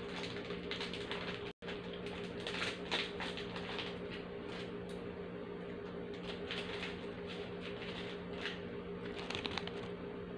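Crunching and chewing of crisp biscuits close to the microphone: irregular clusters of crackles over a steady low hum, with the sound cutting out for an instant about a second and a half in.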